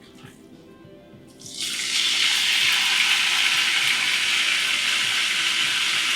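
Raw chicken pieces going into hot olive oil in a pan. The oil starts to sizzle loudly about a second and a half in and keeps up a steady frying hiss.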